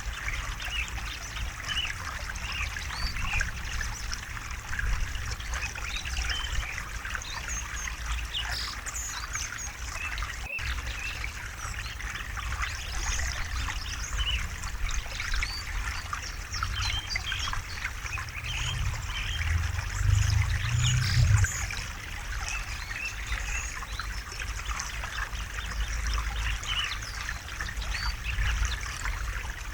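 River water babbling and trickling over rocks, a continuous splashing with a deeper rumble underneath that swells for a couple of seconds about two-thirds of the way through.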